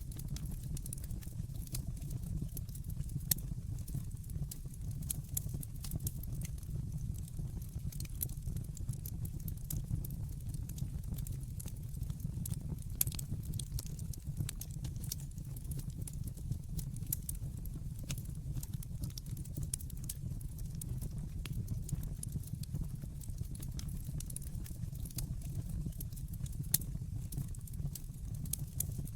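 Wood fire burning in a fireplace: a steady low rumble of flames with constant small crackles and scattered sharp pops, a few of them louder.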